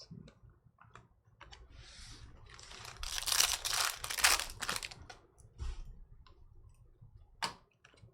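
A trading-card pack's wrapper being torn open and crinkled, crackling for a few seconds, with light clicks of cards being handled before and after and one sharper click near the end.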